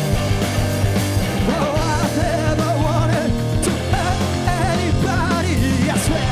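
Live rock band playing loudly, with drums, a steady bass line, and a wavering sung melody coming in about a second and a half in.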